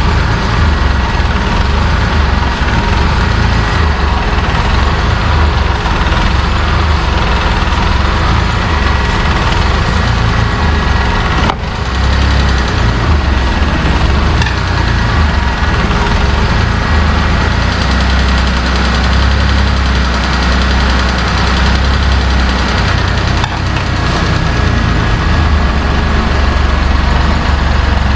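Suzuki Carry DC51T kei truck's small three-cylinder engine idling. The idle is uneven: a rough, unstable idle with a strong raw-fuel exhaust smell, which the owner puts down to a misfiring cylinder.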